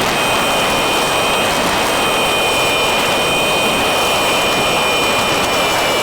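Wind rush on the mic of a camera mounted on a Yamaha MT-03 motorcycle cruising at steady highway speed, with the bike's engine running evenly under it and a few steady high whining tones.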